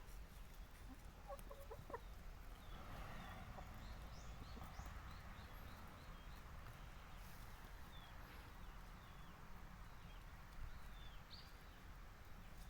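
Boris Brown hens clucking quietly, with a few faint, short, high chirps scattered throughout.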